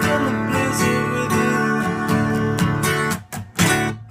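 Acoustic guitar strumming the closing chords of a song. A little after three seconds the playing stops short, and two quick strummed hits come in the break.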